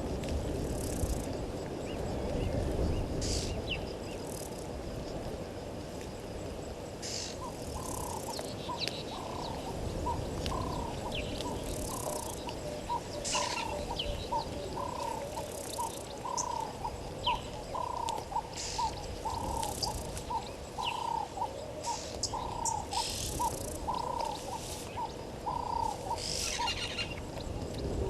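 Wild birds calling: one bird repeats a short, mid-pitched note about twice a second for some twenty seconds, starting several seconds in, while other birds give scattered brief high chirps. A low rumble of wind is heard at the start.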